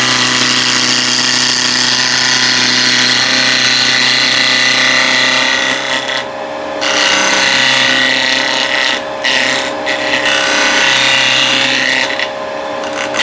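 Vicmarc VL300 wood lathe running while a gouge cuts the spinning wood: a steady hiss of cutting over the lathe's hum. The cut lifts off briefly a few times, leaving only the hum.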